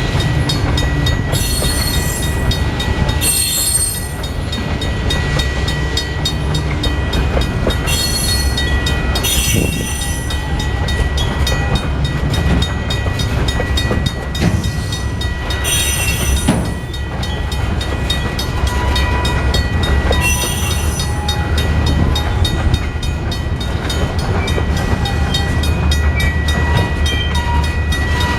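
Slow freight train rolling across a grade crossing: a continuous low rumble of rail cars and locomotive, with a steady high tone throughout and several brief hissing screeches.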